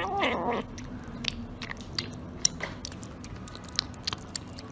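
A pet, apparently a cat, chewing and crunching food: a run of small, crisp, irregular clicks. A brief wavering call comes at the very start.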